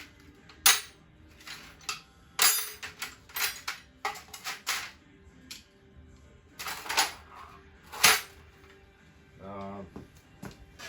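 Metal tools and parts clinking and clattering as they are picked up and moved around on a cluttered workbench, a string of uneven sharp knocks, with faint music underneath.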